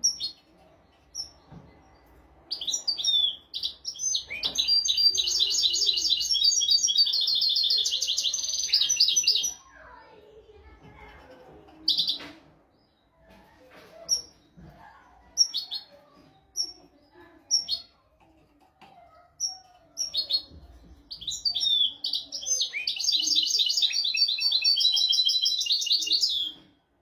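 European goldfinch singing: two long, fast twittering song phrases of several seconds each, about two and twenty-one seconds in, with single short call notes scattered in the pause between them.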